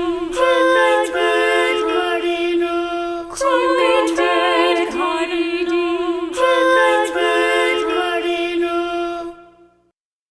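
Unaccompanied voices singing a children's song, with changing melodic lines over one steady held note. The singing fades and stops about nine and a half seconds in.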